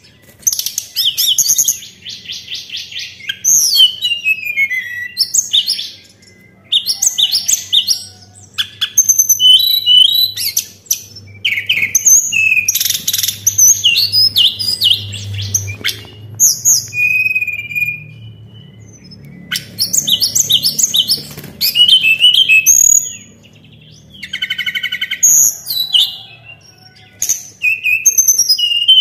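A tledekan songbird singing loud, varied phrases of clear whistles and rapid trills in bursts separated by short pauses. The song is used as a lure call to trigger other birds to sing.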